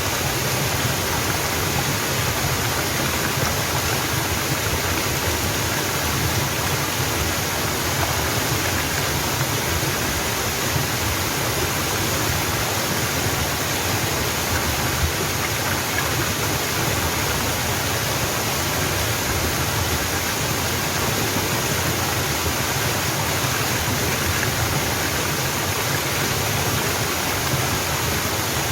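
Mountain waterfall rushing steadily, an even unbroken water noise with no other events.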